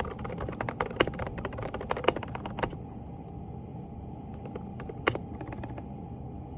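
Typing on a Groovestone GV10 mechanical keyboard with hand-lubed silent Coral 38 g switches: a quick run of soft keystrokes for about two and a half seconds, then a pause broken by a few scattered keystrokes about five seconds in.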